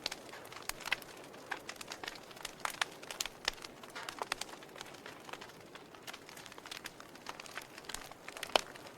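Wood fire in a fireplace crackling: irregular sharp pops and snaps over a soft, steady hiss of the flames, with one louder pop near the end.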